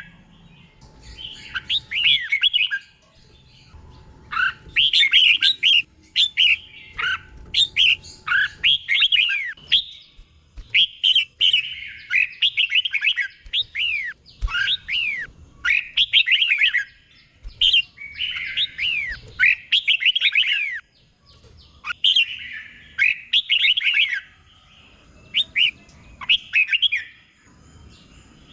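Red-whiskered bulbul singing: short, bright phrases of quick up-and-down whistled notes, repeated every second or two with brief pauses, often two phrases close together.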